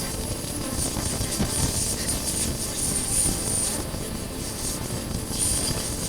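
Wind rushing and buffeting over the microphone, over the steady running of a Honda CB400X's parallel-twin engine and tyre noise while riding.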